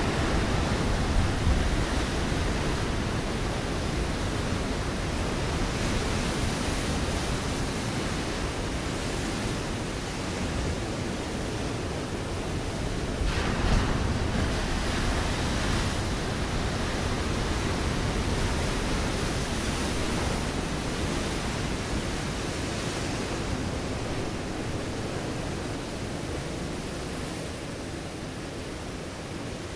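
Ocean waves breaking on a rocky shore: a continuous wash of surf, with a wave crashing louder right at the start and another about halfway through, the wash easing slightly near the end.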